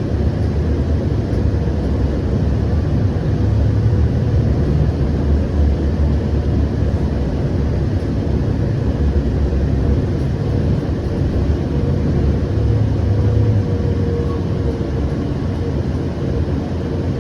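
Siemens S700 light rail car running between stops, heard from inside: a steady low rumble of wheels on rail with a faint steady whine.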